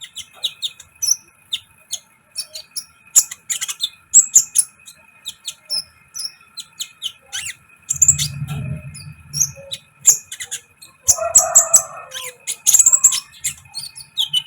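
Sunbird (kolibri ninja) giving rapid, high, short chirps and twitters. A low rumble comes about eight seconds in, and a brief rustling noise about eleven seconds in.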